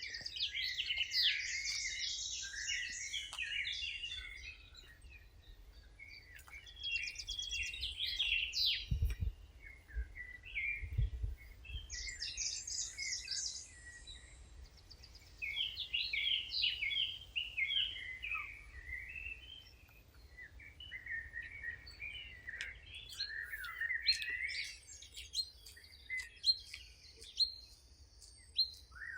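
Songbirds singing in repeated bursts of quick chirps and trills, with short pauses between phrases. Two brief low thuds come about a third of the way in.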